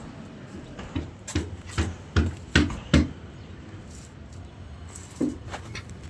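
A run of six sharp knocks or taps at an even pace, a little over two a second, followed by two softer taps near the end.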